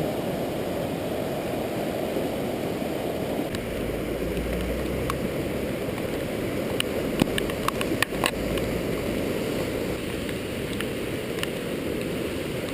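Rushing flash-flood water running steadily. A few sharp clicks and a low rumble come in between about four and eight seconds in.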